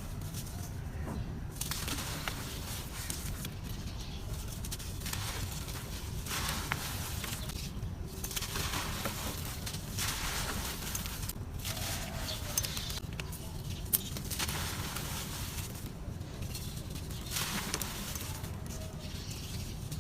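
Dry, grainy red dirt crumbling and crackling, in repeated bouts of a second or a few seconds each with short pauses between, and occasional sharp snaps.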